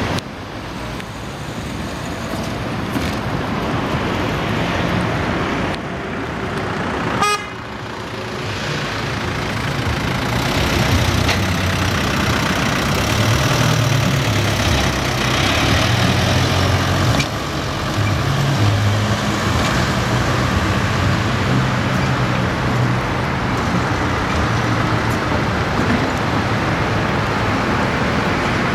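City road traffic running past, with a heavy vehicle's engine loudest from about 12 to 20 seconds in and a sharp click about 7 seconds in.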